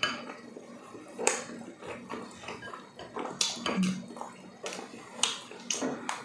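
Close-miked eating sounds: wet chewing and lip-smacking of tender braised pork leg, in short irregular clicks and smacks. A brief low hum of a voice comes near the middle.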